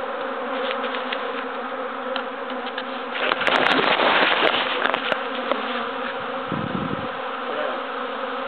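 Swarm of honeybees buzzing all around: a dense, steady hum of many wingbeats. About three seconds in, a louder crackling rush lasts a couple of seconds, and a brief low thump follows.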